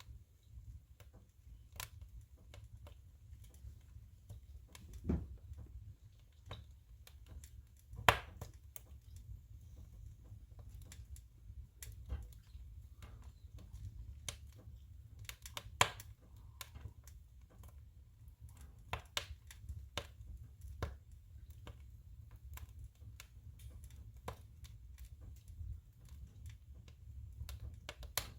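Firewood burning in a stove, crackling with irregular sharp pops of varying loudness, a few louder snaps among them, over a steady low rumble.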